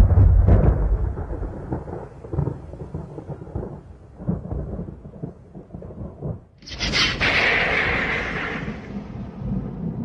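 Thunder: a deep rolling rumble that slowly fades with scattered crackles. About two-thirds of the way through comes a sudden sharp crack of close thunder, which trails off over a couple of seconds into more low rumbling.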